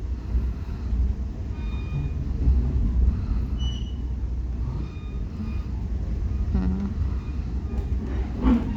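Metra commuter train rolling along the track, heard from inside a coach: a steady low rumble of wheels on rail with faint high-pitched wheel squeals now and then, and a brief louder sound near the end.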